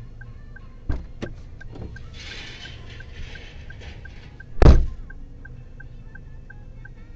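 Two sharp knocks about a second in and a loud thump just past the middle, over a steady, fast, even ticking, with a hiss between the knocks and the thump.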